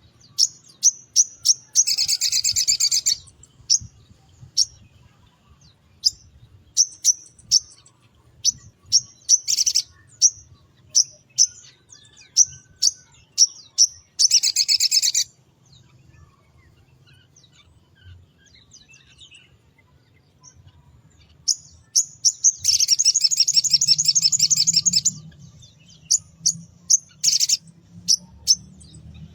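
A sogon (pastol) bird singing: a string of short high chirps about two a second, broken by fast buzzy trills of a second or two, three times in all, with a lull of a few seconds midway.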